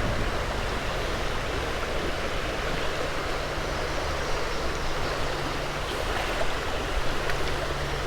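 Flowing creek water, a steady rush, with a faint low hum coming in about three seconds in.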